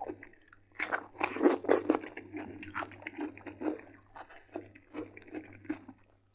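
A crunchy bite into a piece of cucumber about a second in, then close-miked chewing at a steady rhythm of about two chews a second.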